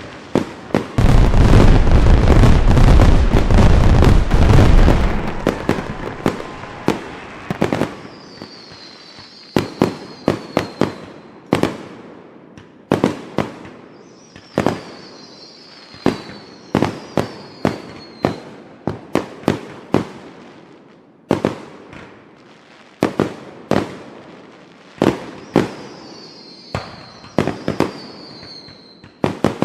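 Fireworks going off: a dense, very loud barrage for the first few seconds, then sharp bangs in quick clusters every second or two. At times faint high sounds fall in pitch above the bangs.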